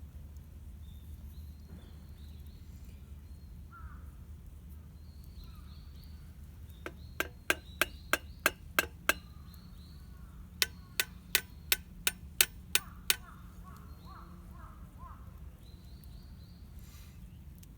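Two runs of sharp knocks, about three a second, each lasting a couple of seconds with a short pause between, over faint chirping of small birds.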